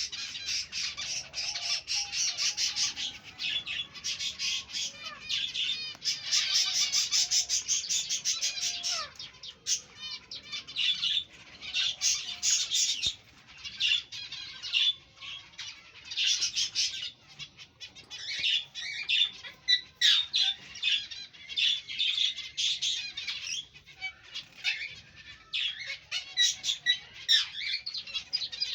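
A colony of aviary finches chirping and calling, many birds at once in dense, overlapping chatter that comes in clusters with brief lulls.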